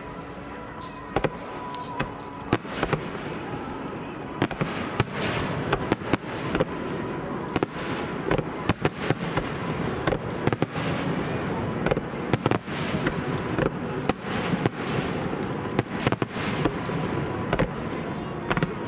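Fireworks display: aerial shells bursting in a dense barrage of sharp bangs, several a second, over a continuous rumble. The bursts come thicker about four seconds in.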